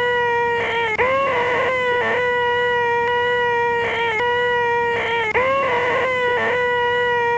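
A man's voice holding a loud, nasal, buzzing 'eeeeh' screech at one steady pitch without a pause: the 'most annoying sound in the world' gag. The sound is looped, so the same brief wobble in the tone comes about a second in and again about five seconds in.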